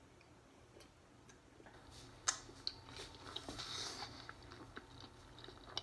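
Quiet mouth sounds of someone eating very spicy fried chicken: soft chewing and lip smacks, with scattered clicks from about two seconds in. Around three to four seconds in comes a breathy hiss of air through pursed lips, against the chili heat that has numbed his lip.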